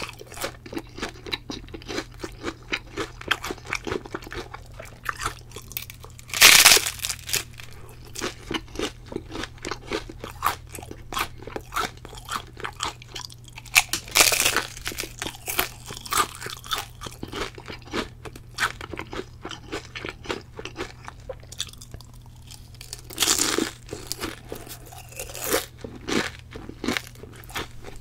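Someone biting into and chewing crisp fried tempura: dense crackly chewing throughout, broken by louder crunching bites about six and a half, fourteen, twenty-three and twenty-five seconds in.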